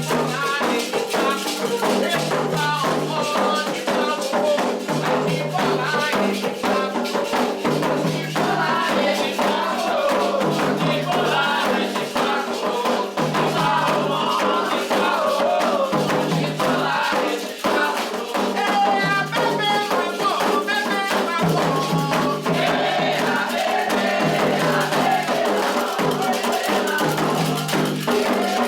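Candomblé toque for Oxossi and Ossaim: sung chant over steady ritual percussion with shaken rattles, continuous and dense.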